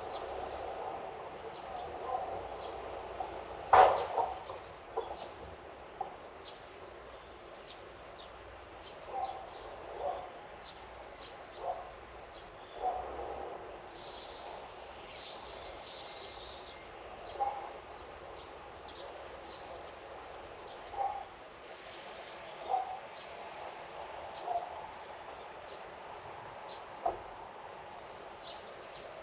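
Birds calling: short calls every second or two, the loudest about four seconds in, over frequent faint high chirps.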